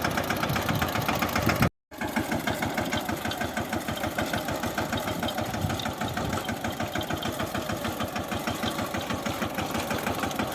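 Mahindra Yuvraj mini tractor's single-cylinder diesel engine running steadily with a rapid knocking beat. The sound drops out briefly about two seconds in, then resumes.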